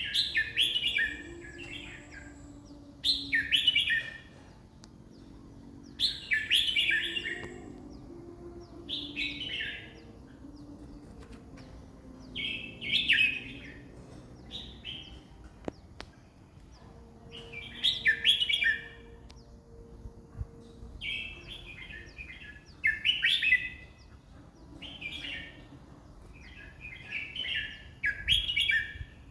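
Caged red-whiskered bulbul singing short, bright warbling song phrases of about a second each, one every two to three seconds, coming faster near the end.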